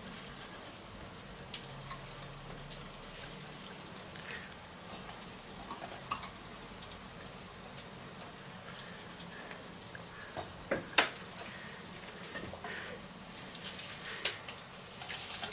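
Faint sizzle and crackle of food frying in a pan, with scattered light clicks and one sharper tap about eleven seconds in.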